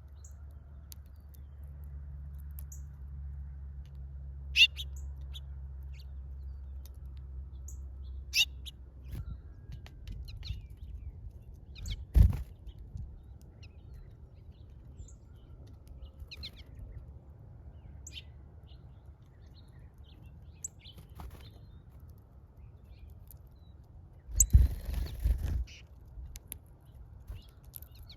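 Small birds at a feeder giving short, scattered chirps, with a sharp knock about twelve seconds in and a brief burst of rustling near the end.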